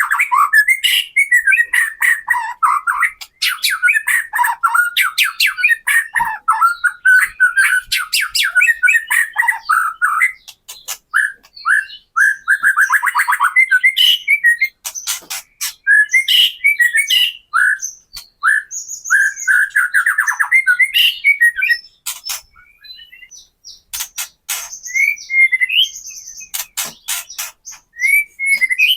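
White-rumped shama (murai batu) singing a fast kretekan song: rapid rattling strokes mixed with short whistled phrases, growing sparser with brief pauses in the last few seconds.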